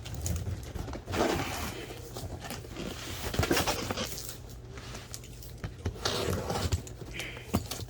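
Cardboard box and its packing being opened by hand: irregular crinkling, tearing and scraping.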